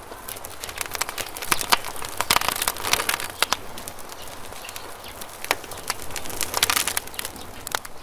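Campfire wood crackling and popping, with irregular sharp snaps in clusters, busiest a couple of seconds in and again near the end, over a soft hiss of the fire.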